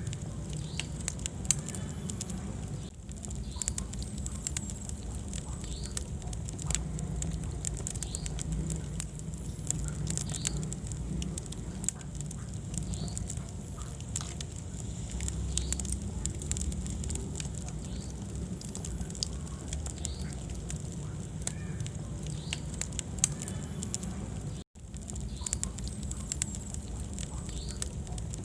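Wood fire burning in a fireplace: a steady low rumble of flames with frequent, irregular sharp crackles and pops. The sound drops out for an instant about three-quarters of the way through.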